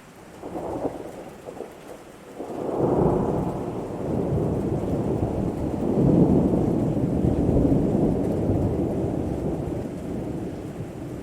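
Thunder rolling over steady rain: a short rumble about half a second in, then a long, deep roll of thunder from near the three-second mark that swells twice and slowly fades.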